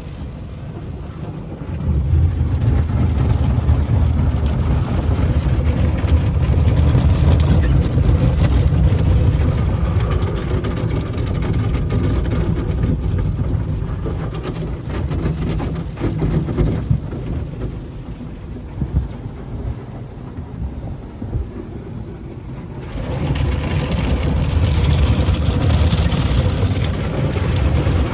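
Sonny tunnel car wash equipment working over a car, heard from inside the car: a heavy low rumble with a rushing spray of water and wash material. It comes in strongly about two seconds in, eases through the middle, then swells again with a louder hiss near the end.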